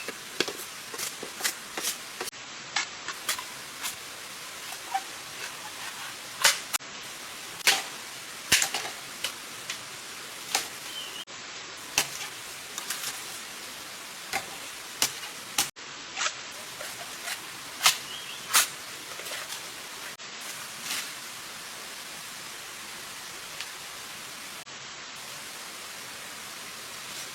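Many sharp, irregular snaps and clicks, thick for most of the stretch and thinning out near the end, over a steady hiss. A few short bird chirps come in now and then.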